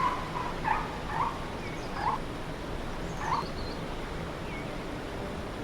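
Four short, rising animal calls, well spaced, with faint high chirps behind them and a steady rainforest background hiss.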